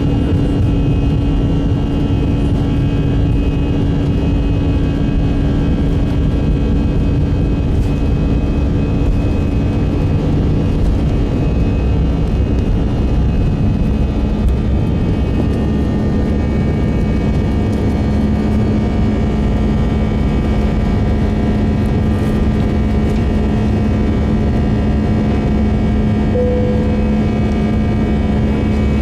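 Airbus A319 cabin noise: the engines and airflow make a steady rumble with a hum, and the hum steps down in pitch about halfway through.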